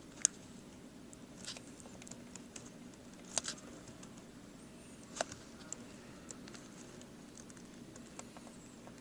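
Scattered small clicks and taps of hands working a keyboard ribbon cable into its connector. The sharpest come just after the start, about three and a half seconds in and about five seconds in, over a faint steady hum.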